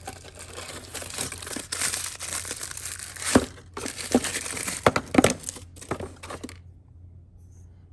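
Plastic packaging crinkling and rustling as a new piston is unwrapped, with a few sharp clicks and knocks among it; the rustling stops about six and a half seconds in.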